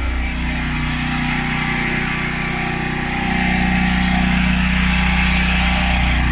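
Refrigerator compressor running with a steady hum and a low drone; its tone grows louder about three seconds in. The fridge is being recharged with refrigerant because it is not cooling.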